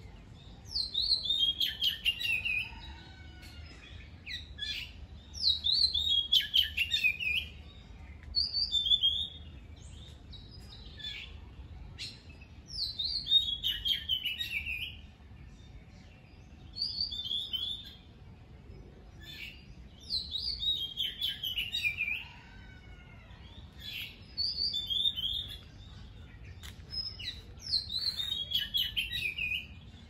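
A songbird singing the same phrases over and over every few seconds: a fast run of high notes falling in pitch, alternating with short two-note calls, over a faint steady low background rumble.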